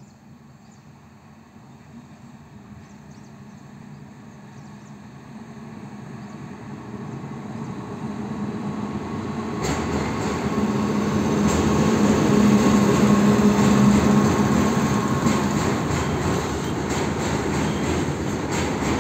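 Indian Railways freight train hauled by an electric locomotive, approaching and passing close by, growing steadily louder over the first half. A steady hum from the locomotive is loudest as it goes past, then the loaded wagons roll by with wheels clicking over the rail joints near the end.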